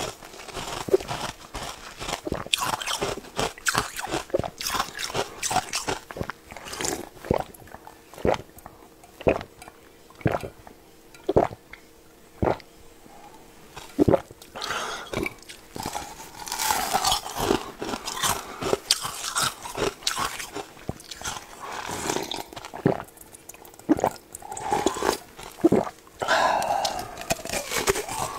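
Biting and chewing a peeled red dragon fruit: a long run of short, sharp mouth sounds, about one a second through the middle, with softer chewing between.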